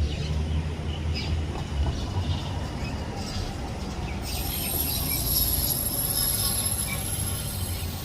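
Outdoor ambience: a low rumble for the first few seconds, then from about four seconds in a steady, high-pitched shrill drone that starts suddenly.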